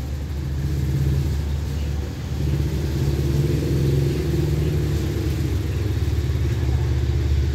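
Diesel passenger train running with a steady low rumble and hum as its carriages roll slowly alongside the platform.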